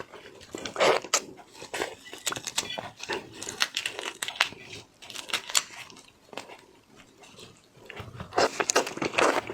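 Close-miked eating sounds of raw shellfish: wet chewing, lip smacks, slurps and small crunches, with a heavier burst of sucking and smacking about a second in and again near the end.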